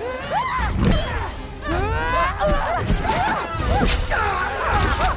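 Several people screaming and yelling over each other in a melee, with sharp blows and crashes scattered throughout.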